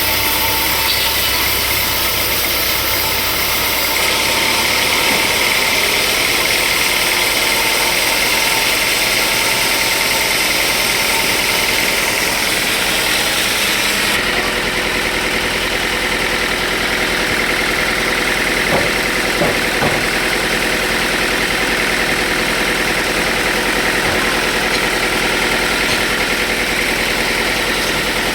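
Sawmill machinery running steadily: an engine-like drone under a loud high hiss, the sound changing abruptly about four seconds in and again about fourteen seconds in, with a few light knocks later.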